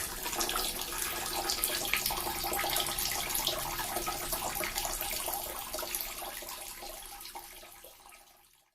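Small water fountain splashing and trickling steadily, fading out over the last few seconds to silence.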